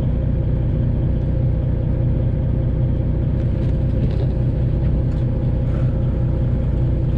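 Detroit Diesel 12.7-litre (Series 60) engine of a Freightliner Classic XL semi truck running steadily, a deep even drone with no change in pitch.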